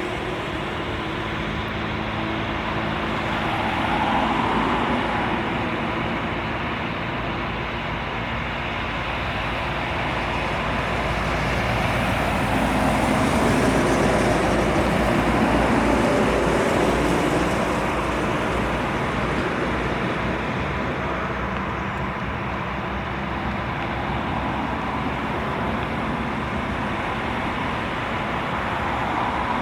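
Airliner jet engines passing at the airport: a steady rushing rumble that swells to its loudest about halfway through, then eases off.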